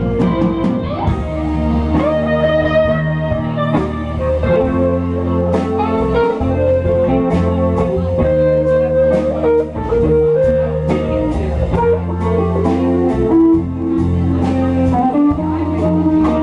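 A blues band playing an instrumental break: an electric guitar carries a slow lead line over bass guitar and drums.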